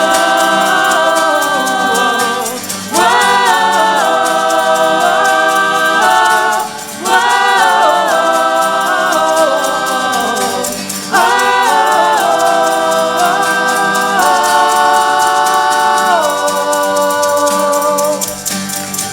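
Church worship team singing a wordless "oh, whoa" refrain in held, gliding notes with voices in harmony. Long sung phrases begin about three, seven and eleven seconds in.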